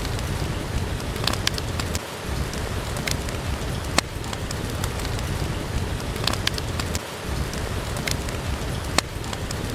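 Steady rain with a low rumble underneath, and a wood fire crackling with sharp single pops every second or two.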